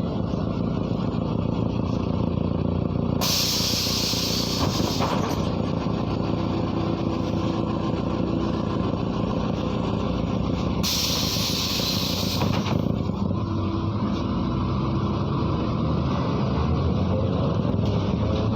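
MAZ-103 city bus running, heard from inside the passenger cabin: a steady diesel drone with two loud hisses of compressed air, each about two seconds long, from the bus's air system, likely its air brakes. Near the end the engine pitch rises as the bus picks up speed.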